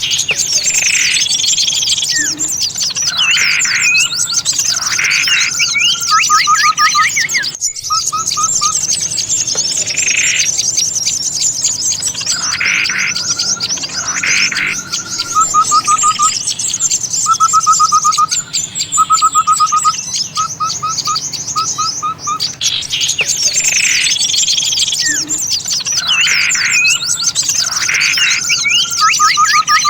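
Looped bird-lure recording of many small songbirds chattering together: a dense high twittering, with louder sweeping calls and short rapid lower trills. The same sequence of calls comes round about every ten seconds.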